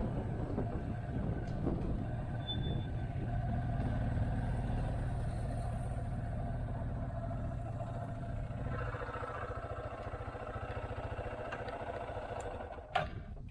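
Motorcycle engine running while riding, a steady hum with its note changing about nine seconds in. Near the end there is a sharp knock and the engine sound drops away.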